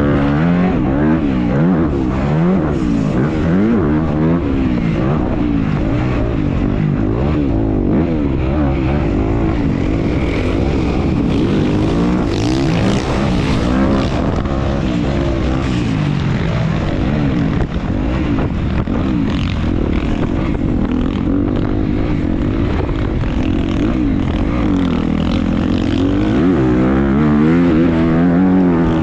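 Dirt bike engine revving up and down without a break as it is ridden hard over a motocross track, its pitch climbing and dropping every second or two through throttle, gear changes and braking.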